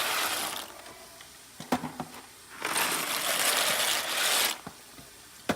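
Dry penne pasta pouring and rattling out of a box into a pot of boiling water, in two pours: one ending about half a second in, the other from about two and a half to four and a half seconds in. A few sharp knocks fall between them and one near the end.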